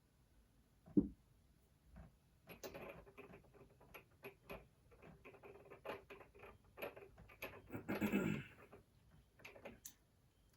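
Faint handling noise of small metal transmission parts: a single knock about a second in, then a run of light clicks, clinks and scraping as a lubed gear is fitted onto the transmission shaft.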